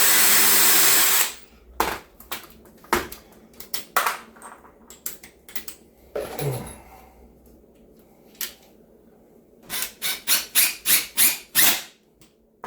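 Cordless drill running at full speed for about a second and a half, then sharp clicks of tool and screw handling, a brief second drill burst about six seconds in, and a quick run of about ten sharp clicks near the end.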